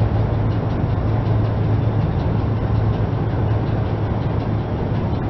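Car engine running steadily with a low hum as the tyre rolls slowly over soft, melting ice pops, without any crunch.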